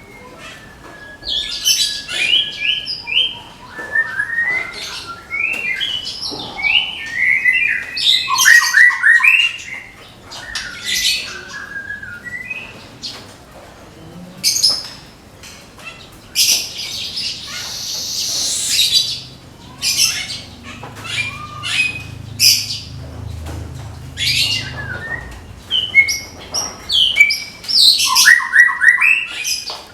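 White-rumped shama (murai batu) singing loud, varied phrases, with quick runs of repeated stepped notes in its rapid-fire song. About halfway through there is one harsh, noisy burst lasting about two seconds.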